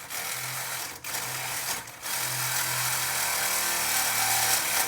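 Power saw cutting through a steel exhaust pipe, running steadily with brief pauses about one and two seconds in; the pipe is double-walled, which makes the cut slow.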